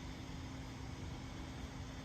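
Steady hiss with a faint steady low hum: background room tone with no distinct event.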